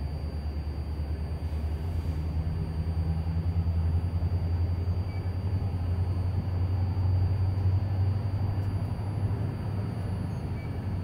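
Approaching MARC commuter train: a steady low rumble that slowly grows louder as the train draws closer.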